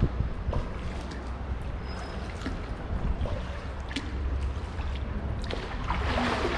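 Kayak paddling: water splashing and trickling off the paddle blades, with scattered light knocks and a steady low rumble underneath.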